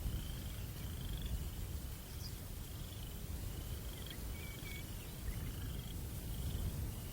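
Low rumble of night breeze buffeting the microphone, with a cricket chirping in short, high trills about once a second.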